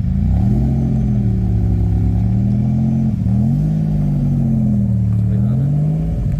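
A car engine running close by, revved twice: its note rises about half a second in, holds, eases off, rises again about three seconds in, and drops near the end.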